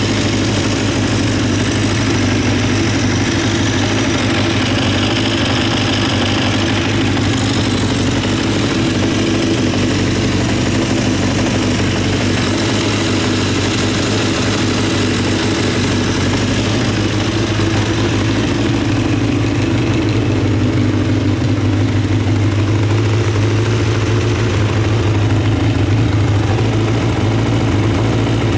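Honda CBX550F2 Integra's air-cooled inline-four engine idling steadily.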